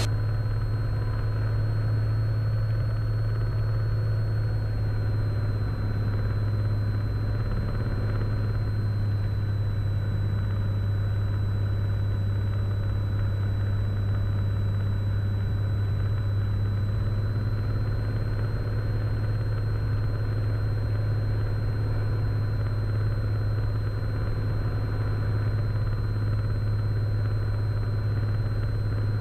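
Cessna 182 Skylane's piston engine and propeller droning steadily in the cockpit on final approach, with a thin steady high whine above it.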